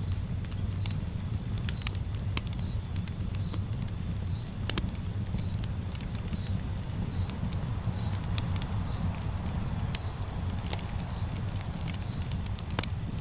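Campfire burning: scattered sharp crackles and pops over a steady low rumble. A faint short high chirp repeats about once a second.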